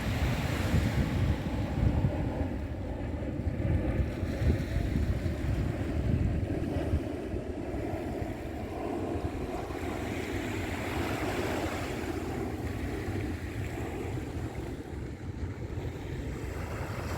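Moving water with wind buffeting the microphone: a steady rush over a heavy low rumble, gusting louder in the first half and settling steadier after.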